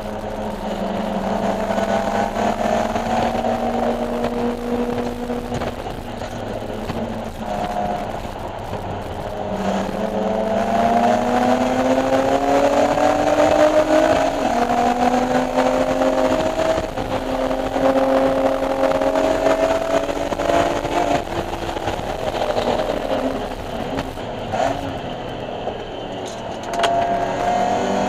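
BMW E46 M3's S54 straight-six engine at full throttle on a race track, its pitch climbing through the revs, dropping at shifts and lifts, and climbing again several times.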